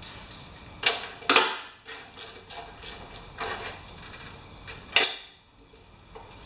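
Sharp knocks and clicks of hand tools being handled against metal: two loud knocks about a second in, another near five seconds, and lighter clicks between, each briefly ringing.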